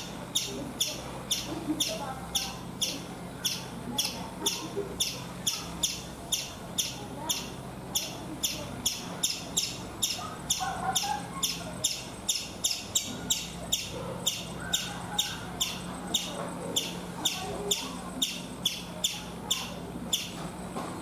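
Indian palm squirrel (the striped 'chipmunk' of India) giving a long run of short, sharp, high-pitched chirps, repeated evenly about two to three times a second.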